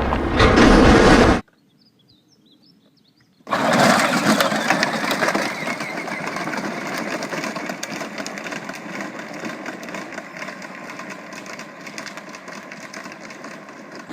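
A motor running with a rough, crackly rattle, starting suddenly after a short near-silent gap and fading slowly. A loud sound cuts off just over a second in.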